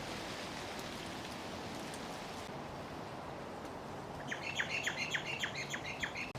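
A bird calling a rapid run of short, falling chirps, about six a second, starting about four seconds in and stopping near the end, over a steady faint outdoor hiss.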